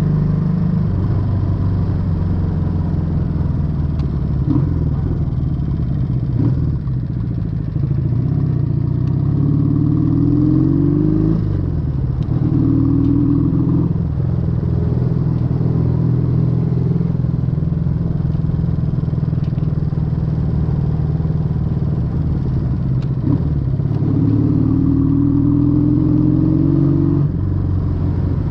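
Exhaust of a 1968 Honda Dream CD250's air-cooled parallel-twin four-stroke engine as the motorcycle is ridden. The engine note runs steadily and rises in pitch twice as it accelerates, about a third of the way in and again near the end.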